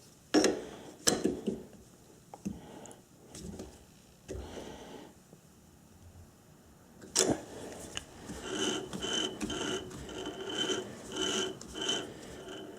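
Sharp metal clicks and knocks of a chuck key and hands working the jaws of a lathe chuck, then a rubbing, scraping run from about seven seconds in with a faint squeak repeating about twice a second.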